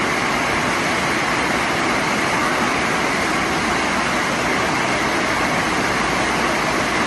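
Heavy rain making a steady, even rushing noise.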